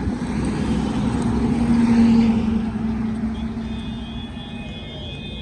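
A motor vehicle passing by: its engine hum swells to its loudest about two seconds in, then fades away.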